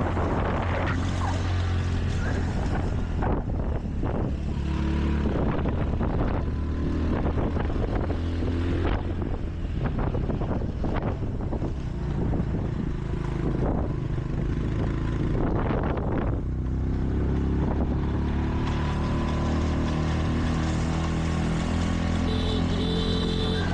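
Motorbike engine running steadily while riding, with wind buffeting the microphone in irregular gusts.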